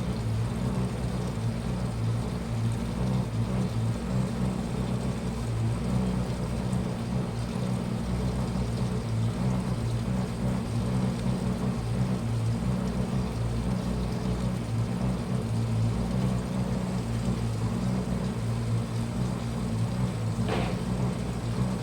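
Washing machine running with a steady low hum. There is one short knock near the end.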